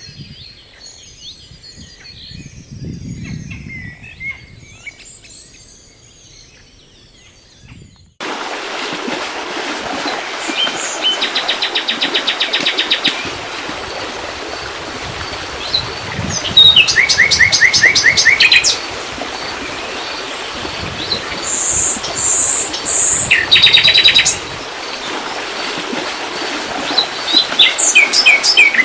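Wild songbirds chirping and singing. Faint scattered chirps come first. About eight seconds in, the sound changes to a steady rushing background, over which a bird close by sings loud phrases of rapid repeated notes several times.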